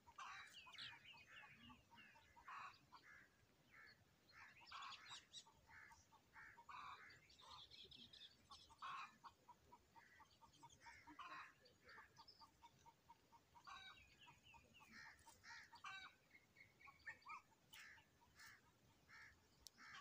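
Faint bird calls: many short chirps repeated in quick runs, with a few louder clusters.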